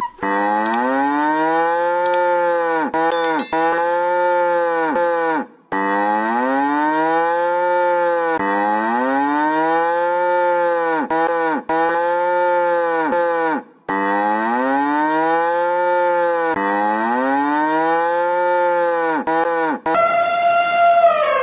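A bovine mooing over and over in quick, short moos, each rising and then falling in pitch, about one a second. The calls come in three runs of several moos each, with a brief break between runs; the runs look alike, as if the same run repeats.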